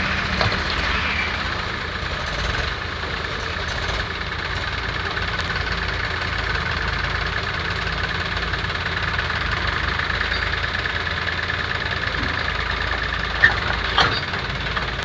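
Tractor engine running steadily at idle, with two sharp knocks close together near the end.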